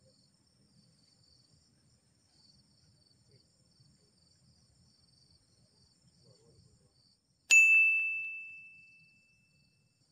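A small bite-alarm bell on a fishing rod struck once about three-quarters of the way in, ringing out clearly and fading over about two seconds: the sign of a fish tugging at the line. Faint insects chirr steadily throughout.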